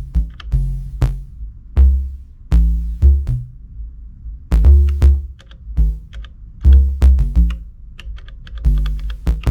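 Elektron Digitakt playing a pattern: deep kick drum hits and short synth bass notes falling at uneven, off-grid moments, with small high ticks between them.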